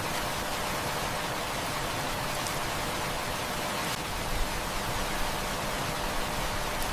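Heavy rain falling steadily, a dense even hiss, with a few faint sharp clicks.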